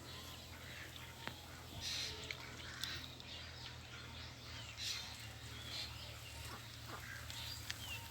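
Domestic ducks calling in short, intermittent bursts over a steady low hum.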